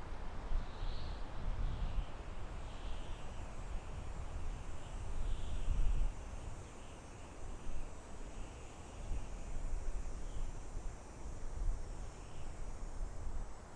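Soft wind blowing through a forest in gusts, with a low rumble that swells and eases, strongest about halfway through. Over it, a bird gives a dozen or so short, high calls, roughly one a second.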